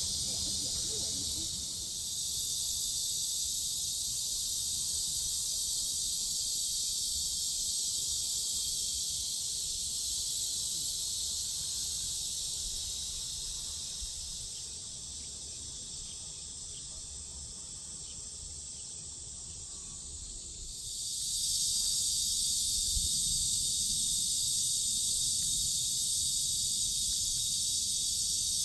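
A chorus of cicadas buzzing in a dense, steady high drone. It eases off about halfway through, then swells back to full strength a few seconds before the end.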